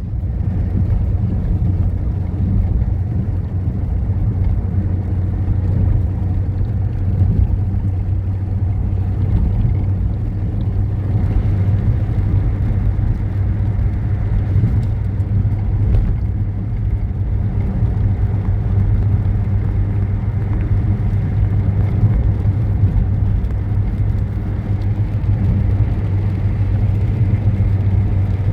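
A motor vehicle's engine running with a steady low drone and hum, unchanging throughout.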